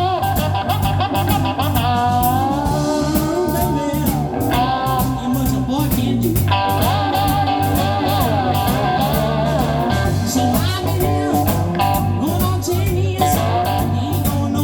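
Live blues: slide-played cigar box guitar over a steady beat, with singing.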